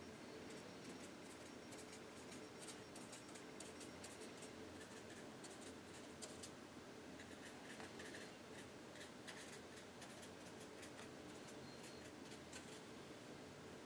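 Faint, irregular scratching of a paintbrush laying acrylic paint onto canvas in many short strokes, over a low steady hum.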